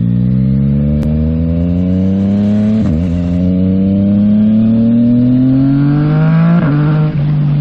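2022 Yamaha MT-09 SP's inline-three with a Yoshimura AT2 full exhaust, accelerating through the gears. The revs climb, dip at an upshift about three seconds in, climb again, then drop at a second upshift near the end and hold a lower, steady note.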